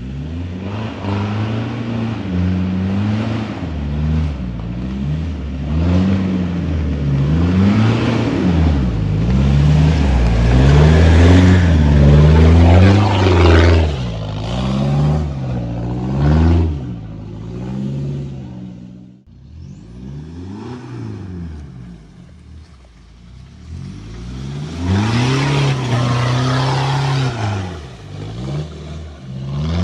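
Toyota Prado 150's 3.0-litre four-cylinder turbodiesel through a straight-pipe exhaust, revved up and down over and over, its note rising and falling every second or two. About two-thirds through it drops away abruptly, then revs up again near the end.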